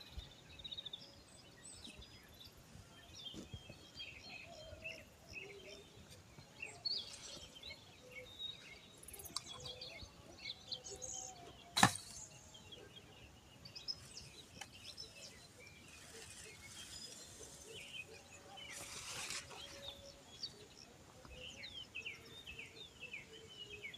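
Birds singing faintly: many short chirps and trills from several birds, scattered throughout. A single sharp click about twelve seconds in.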